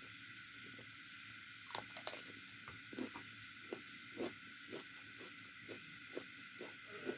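Mouth sounds of eating: soft wet chewing and lip-smacking clicks about twice a second, with a brief cluster of sharper, crunchier clicks about two seconds in. Behind them, a steady hiss and insects chirping in an even rhythm.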